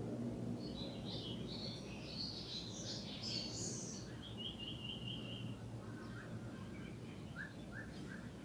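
Small songbirds chirping and warbling, with a quick trill of about six even notes around the middle, over a steady low background hum.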